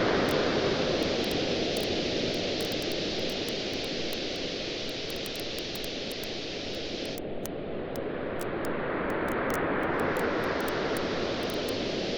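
Waves washing on a beach, fading after the start and swelling again about ten seconds in, with a wood campfire crackling and popping throughout.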